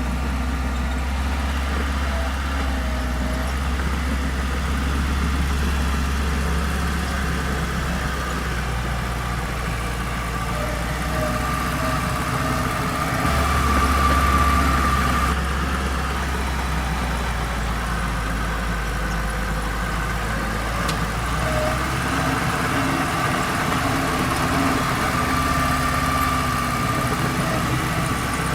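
Heavy diesel engines of earthmoving machinery running steadily with a low rumble. A thin whine grows louder briefly around the middle and again near the end.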